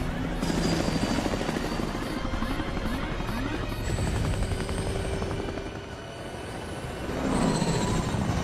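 Helicopter rotor chop and engine noise, loud and pulsing, with music beneath. The sound dips briefly about six seconds in, then swells again.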